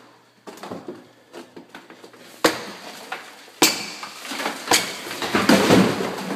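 Drywall being kicked out from behind: three sharp impacts about a second apart, then a longer stretch of board cracking and breaking away near the end.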